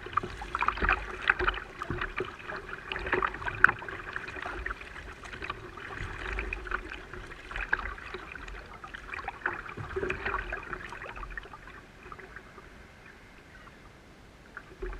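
Water splashing and sloshing around a fishing kayak as it is paddled, in irregular strokes that die down over the last few seconds.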